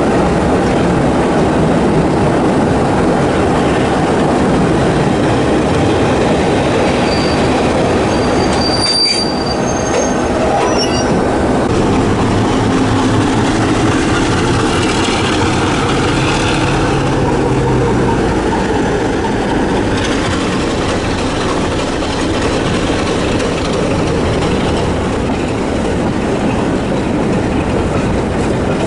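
Heritage diesel train running on the line, heard from an open carriage window: a steady, loud rumble of wheels on the rails, with a few short high-pitched wheel squeals about nine to eleven seconds in.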